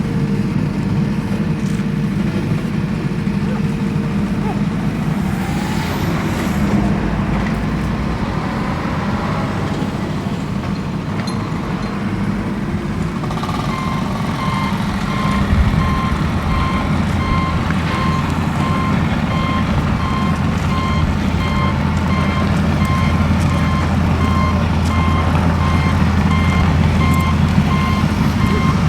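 A vehicle engine running with a steady rumble; about halfway through, a reversing alarm starts, beeping evenly and repeatedly, and the engine rumble gets heavier at the same time.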